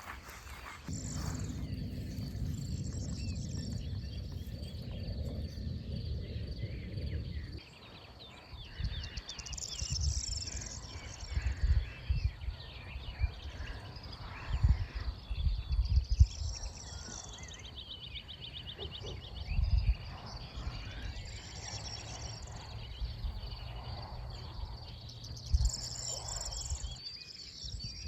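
Open-field morning ambience: birds sing short high phrases every few seconds over a steady faint insect trill. Low rumbling and uneven thumps, as of wind buffeting the microphone, run underneath and are the loudest part.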